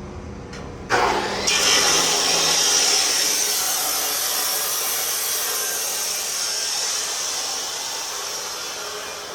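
A metalworking tool running on exhaust pipe, a loud, steady hissing noise. It starts suddenly about a second in and eases off slightly towards the end.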